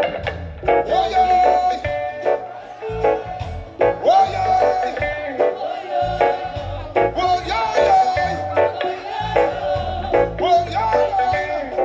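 Live band music with a steady beat and a sustained melody line over it.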